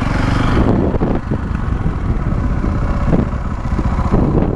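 Street-legal dirt bike's engine running, heard from a helmet-mounted camera. A rush of wind on the microphone drops away less than a second in, leaving the engine's steady low note.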